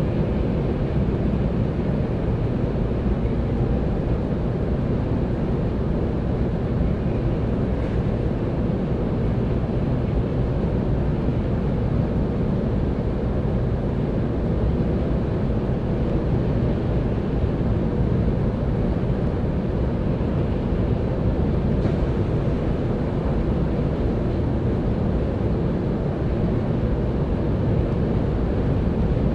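Steady low rumble of a 700-series Hikari Rail Star Shinkansen train running at speed, heard inside the passenger cabin.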